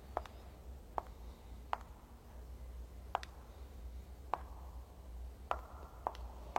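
Seven short, sharp clicks at uneven spacing, roughly a second apart, over a quiet low hum of room tone.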